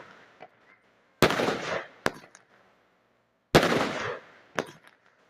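A regular series of sharp bangs, each with a short hissing decay. Each bang is followed by a smaller click about a second later, and the pattern repeats about every two and a half seconds.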